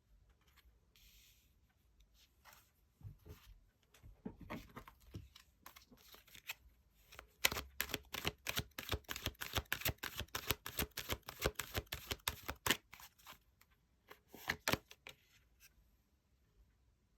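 Tarot cards being shuffled and handled by hand: a quick run of card flicks and slaps, thickest in the middle, with a few more strokes near the end.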